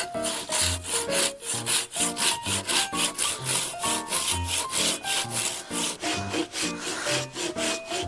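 Handsaw cutting through a thick fallen log, in quick regular strokes about four a second.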